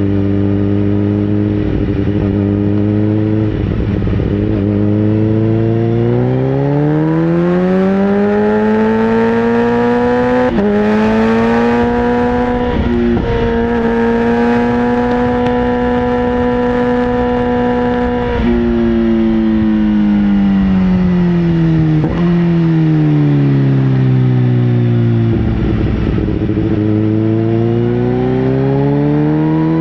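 Sportbike engine running loud and steady: its pitch climbs smoothly to a high steady note, with a couple of brief dips. It then winds slowly back down to a low note before starting to rise again near the end.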